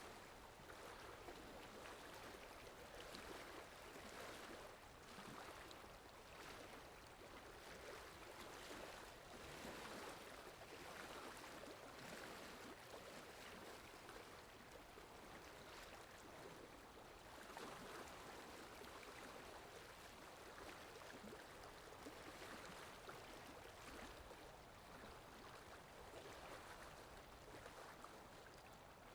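Faint, steady flowing-water ambience, an even rushing sound with gentle swells and no distinct events.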